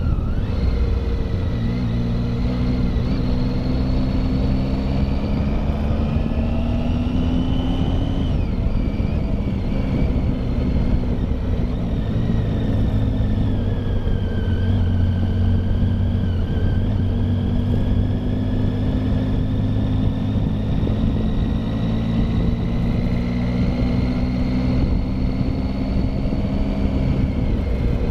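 Triumph Tiger motorcycle engine pulling up a climbing road. Its pitch rises for the first eight seconds or so, drops suddenly, dips again around the middle and then climbs slowly. A steady low wind rumble runs underneath.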